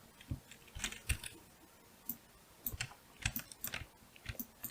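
Computer keyboard keys tapped in short irregular clusters, with a few mouse clicks: keyboard shortcuts while working in 3D modelling software.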